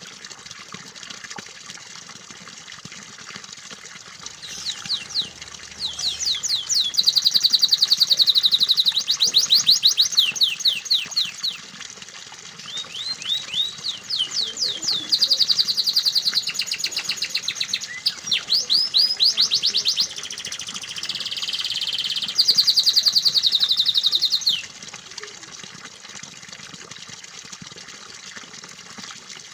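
Domestic canary singing a long song of fast rolling trills and repeated chirps, starting about four seconds in and stopping about five seconds before the end. Steady running water continues underneath.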